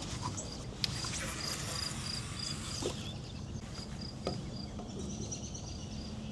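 A cricket chirping in a steady run of short high pulses, several a second, over a low steady rumble, with a few light knocks.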